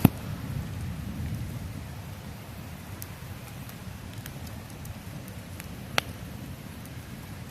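Campfire burning with a low steady rumble, broken by a few sharp pops from the wood, the loudest about six seconds in.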